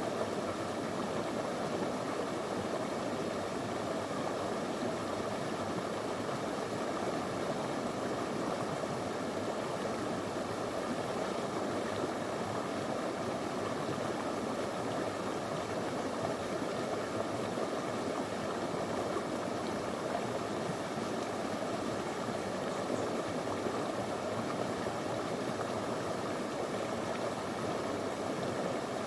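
Small stream flowing steadily over stones, an even rushing and burbling of water.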